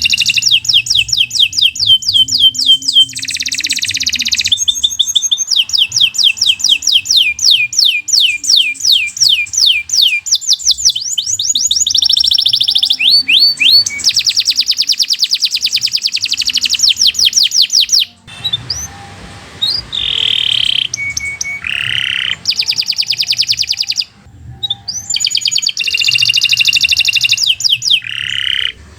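Domestic canary singing a long, fast song of trills: runs of rapidly repeated high notes, one run after another, with two short breaks in the second half.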